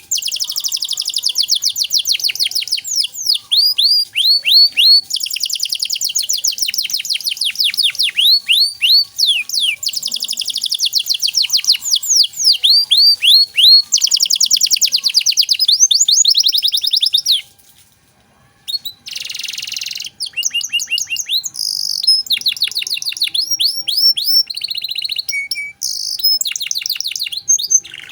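Domestic canary singing a long, loud song of rapid trills made of quick falling notes, changing from one trill to the next every few seconds, with a short break about two-thirds of the way through.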